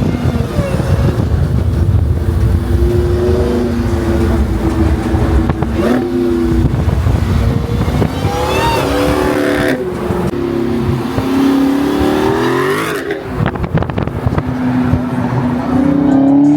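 Car engine running under load, its pitch climbing and then dropping several times, as when a car accelerates and shifts gears.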